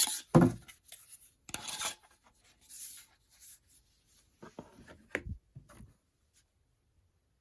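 Intermittent rubbing and scraping of things being handled, with a heavy thump about half a second in and a few more scrapes near the middle.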